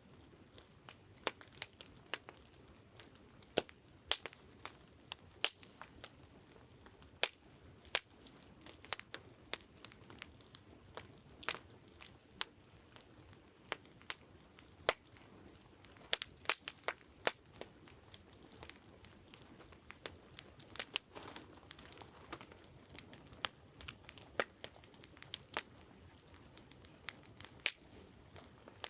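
Wood campfire crackling, with irregular sharp pops and snaps several times a second over a faint steady hiss.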